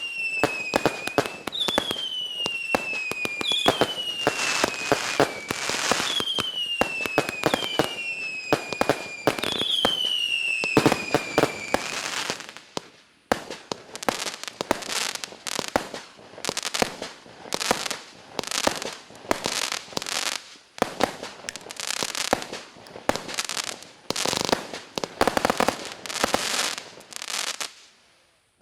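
A 128-shot 20 mm consumer fireworks cake (Klasek C12820F/C) firing. First comes a dense volley of cracking shots with a falling whistle about every two seconds. Then, about halfway through, it settles into separate crackling shots a little over one a second, which stop just before the end as the cake burns out.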